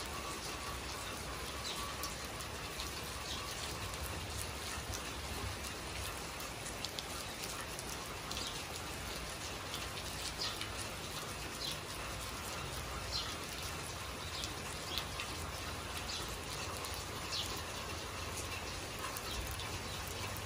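Steady rain falling, an even hiss, with short high-pitched sounds every second or two.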